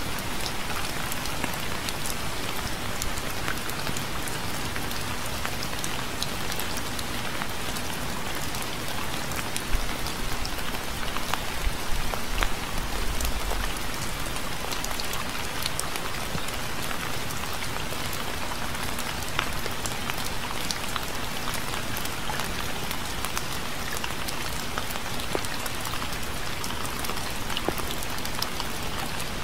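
Steady rain falling, with a constant hiss and many distinct drops ticking on a surface. A few soft low thumps come about ten to fourteen seconds in.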